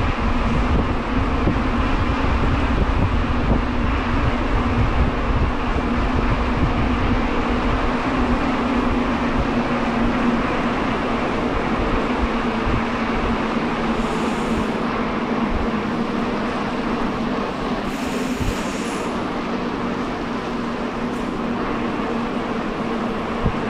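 Steady noise of riding along a trail, with wind buffeting the microphone and a constant low hum underneath; short hissing bursts come about 14 and 18 seconds in.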